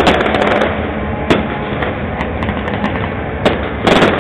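Aerial fireworks shells bursting overhead: a rapid crackling at the start, two single bangs about a second and three and a half seconds in, and a dense volley of cracks near the end.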